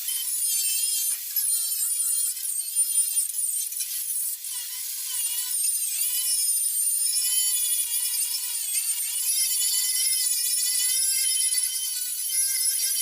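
Angle grinder running at high speed against steel, grinding off rust. It makes a high whine whose pitch wavers and dips briefly a few times.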